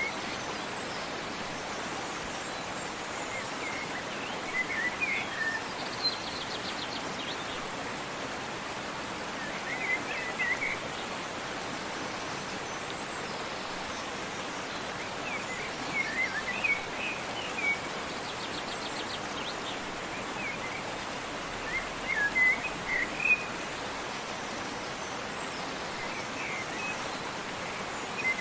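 Steady rushing of a waterfall, with short bursts of bird chirping every few seconds over it.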